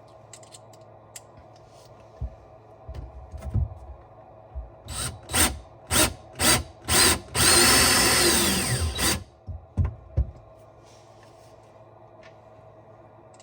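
Power drill driving screws into the cabinet wall to fix a filter bracket: a few short trigger bursts, then one longer run of about a second and a half that stops. Some light knocks from handling come before it.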